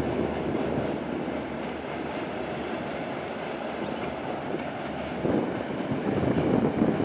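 Rajdhani Express passenger train running past, a steady rumble of wheels on rails that grows louder about five seconds in.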